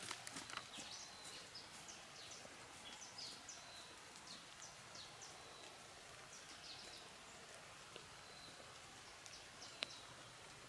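Faint outdoor ambience with scattered short bird chirps, and one sharp click near the end.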